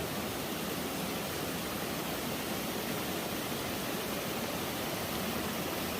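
Steady rush of a waterfall and stream: an even hiss of running water.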